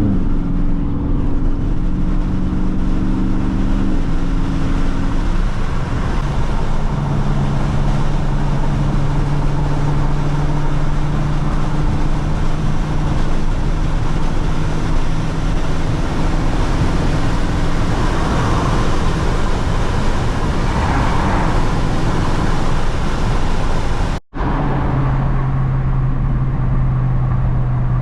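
Dodge Charger Scat Pack's V8 engine running steadily while cruising, its pitch shifting in steps over the first few seconds and then holding low and even. A sudden brief dropout comes near the end, after which the engine runs on at a lower pitch.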